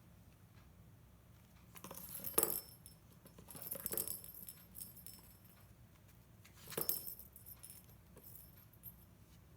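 A cat toy rattling as a cat bats and plays with it, in three short bursts about two, four and seven seconds in.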